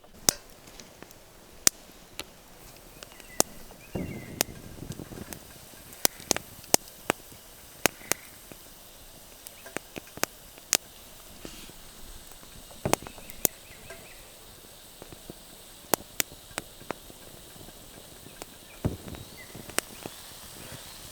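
Hot oil in a pot over a campfire sizzling steadily, with sharp, irregular pops and crackles from the frying and the fire as marshmallows are deep-fried. A couple of soft, dull handling knocks come in between.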